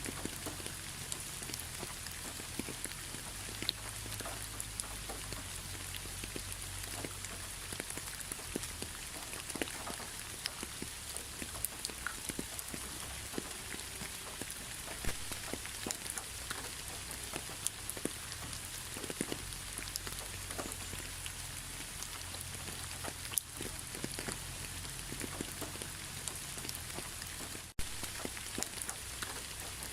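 Steady rain with many close individual drops ticking sharply over the continuous hiss. There is a faint low rumble underneath, and a momentary dropout near the end.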